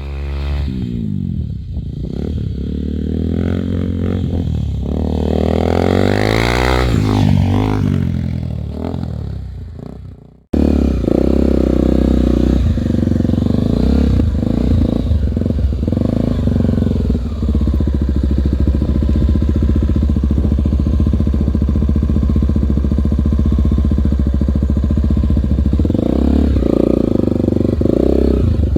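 Single-cylinder four-stroke Honda trail motorcycle being ridden, its engine revving up and down. About ten seconds in, an abrupt cut jumps to a steadier run.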